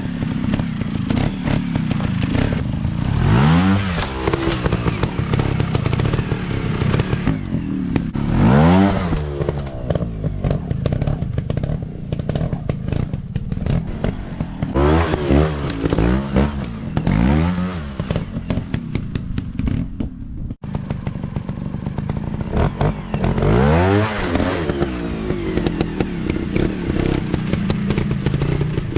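Small single-cylinder dirt bike engines revving up and down repeatedly, with clattering. The revs swell several times.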